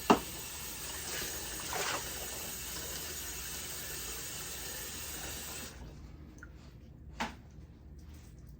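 Water running from a tap, shut off abruptly about two-thirds of the way through. A sharp knock comes just after the start, and another shortly after the water stops.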